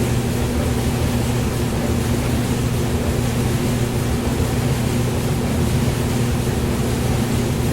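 Hair dryer running steadily: an unbroken rush of air over a low, even motor hum.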